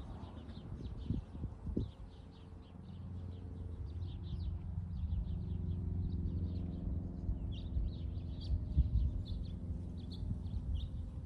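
Small birds chirping in quick, repeated short notes, over a low steady engine-like rumble and a few dull thumps.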